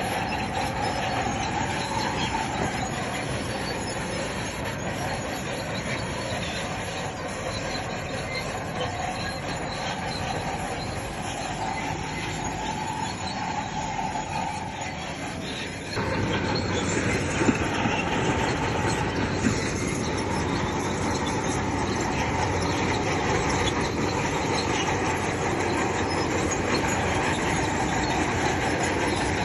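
Crawler bulldozer working, its engine running steadily with the noise of its steel tracks. The sound gets abruptly louder a little past halfway, and two sharp clanks follow a couple of seconds apart.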